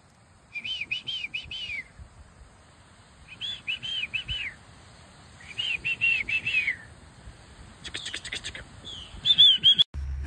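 A songbird singing, repeating a short phrase of four or five quick arched whistled notes about every two seconds, and cutting off abruptly near the end.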